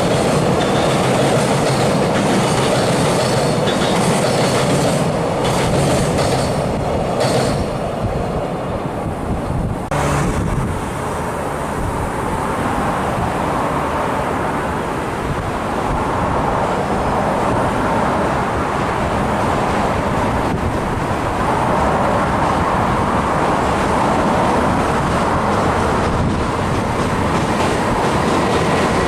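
Train running past on the line, a continuous loud rumble and clatter of wheels on the rails, with a single sharp click about ten seconds in.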